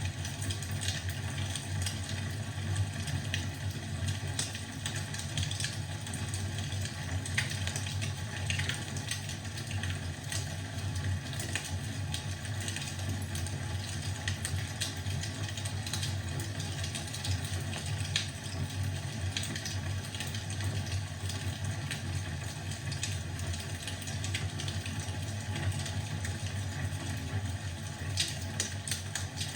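Wood fire crackling in a fireplace: scattered sharp pops and snaps over a steady low rumble and hiss.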